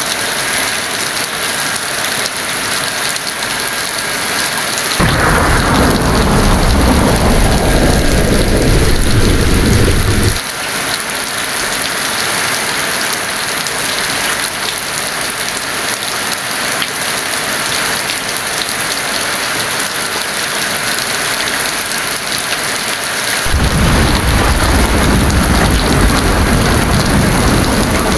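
Heavy rain falling steadily, with two rolls of thunder. The first starts suddenly about five seconds in, falls in pitch and stops abruptly about five seconds later; the second starts near the end.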